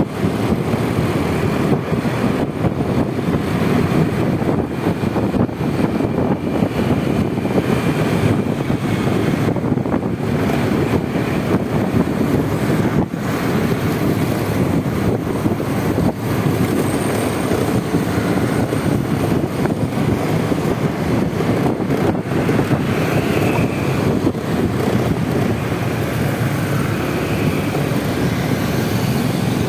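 Steady wind rush on the microphone mixed with the running engine and road noise of a Honda Vario 125 single-cylinder scooter on the move.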